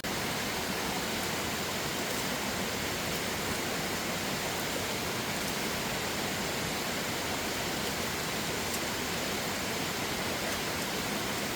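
Steady rushing water, an even noise with no pauses or changes.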